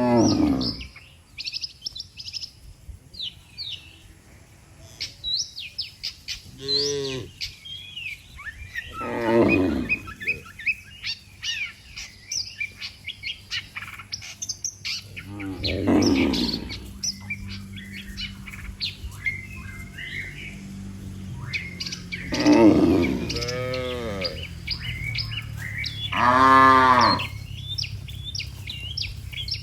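Cattle mooing, about seven separate calls spread through the stretch, over constant bird chirping. A low steady hum joins in about halfway through.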